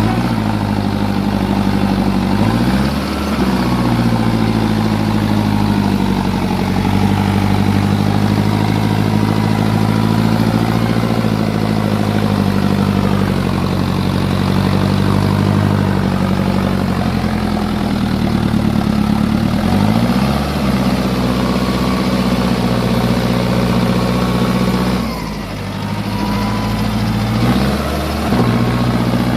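Tractor engine running steadily under work, its speed dipping and picking back up a few times.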